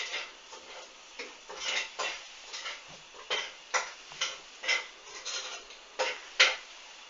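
Hoover front-loading washing machine tumbling a duvet in its drum early in the wash: a quick run of short splashes and clicks, about two a second, the loudest about six seconds in.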